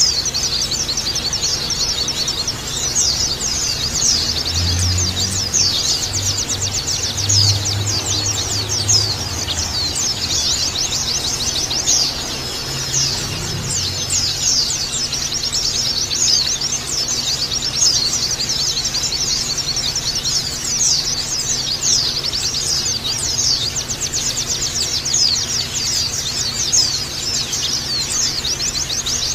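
A flock of white-eyes (pleci) chirping together in a dense, unbroken chatter of quick, high calls.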